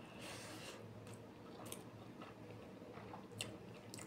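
Faint chewing and small wet mouth clicks as a handful of rice with small hilsa fish curry is eaten by hand, with a brief soft hiss just after the start.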